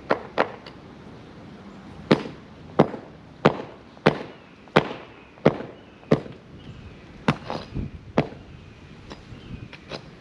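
Repeated sharp hammer blows, about a dozen, mostly spaced roughly two-thirds of a second apart, knocking the form boards and their metal stakes loose from a cured concrete slab.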